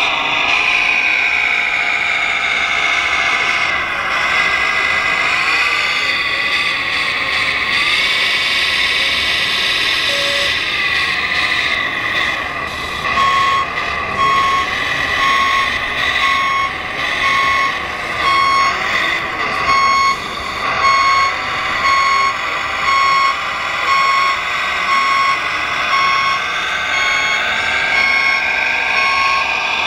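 Radio-controlled model construction machines running, their motors and gearing whining and changing pitch as they speed up and slow down. About halfway through, a reversing beeper starts, giving a regular series of short beeps.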